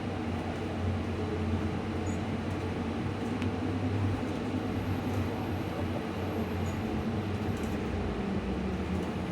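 Cabin noise of a 2018 New Flyer Xcelsior XT40 electric trolleybus with Vossloh Kiepe traction motors under way: a steady low hum from the drive over road rumble.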